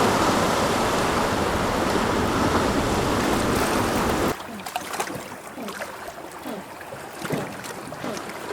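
Sea surf rushing for about four seconds, then a sudden cut to a quieter stretch full of short, sliding calls and clicks.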